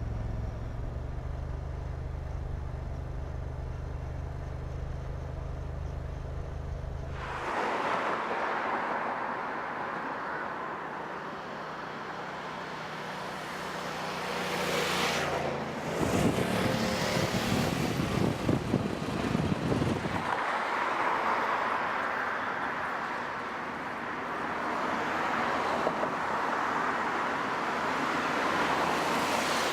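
A car running: a steady low engine drone for the first several seconds, then road and tyre noise as it drives. A louder, rougher engine burst comes from about the middle, lasting a few seconds.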